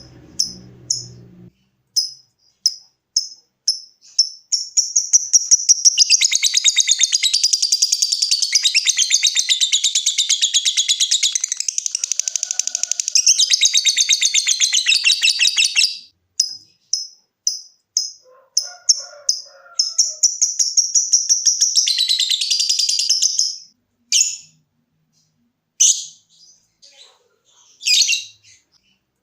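Lovebird calling. It gives short, sharp high chirps about two a second (the 'ngetik' call), then breaks into a long, rapid chattering trill (the 'ngekek') that lasts about eleven seconds. More chirps follow, then a second trill of a few seconds, and a few separate calls near the end.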